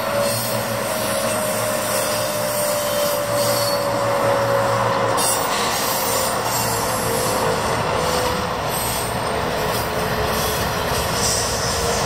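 Long intermodal freight train rolling past close by: steady wheel-on-rail noise from the container cars, with a thin squeal that slowly drops in pitch. The train's rear distributed-power locomotives, BNSF GE ES44s, come alongside near the end.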